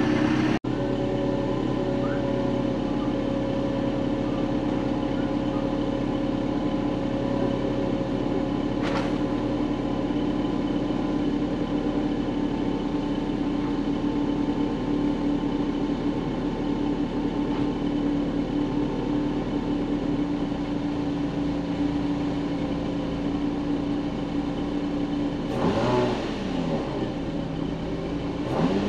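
Car engine idling steadily, then revved briefly twice near the end.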